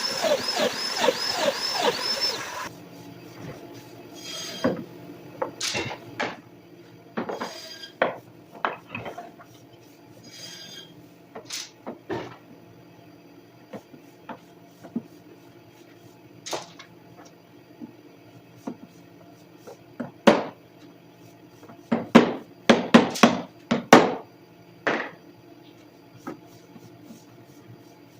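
Wooden workpieces and jig parts handled on a bench: scattered sharp knocks and clicks, with a quick run of knocks about 22 to 25 seconds in. A loud, evenly repeating sound fills the first couple of seconds.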